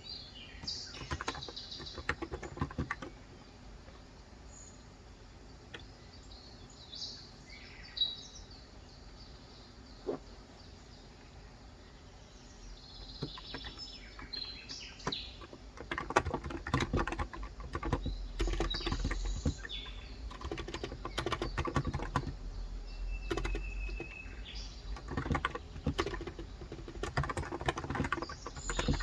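Typing on a COX Endeavor electro-capacitive keyboard with 35 g switches: scattered keystrokes at first, then steady runs of typing from a little past halfway. Birds chirp now and then.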